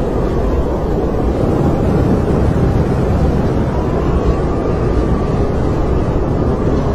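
Snowstorm wind blowing steadily, a low rushing noise with a faint whistle that slowly rises and falls in pitch.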